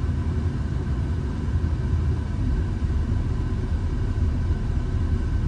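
Big helicopter's rotor and turbine running steadily: a continuous low rumble with a faint steady high whine over it.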